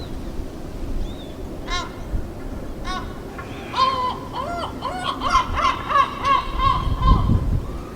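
Bird calls: two short pitched calls, then from about four seconds in a quick run of repeated arched calls, over a low rumble.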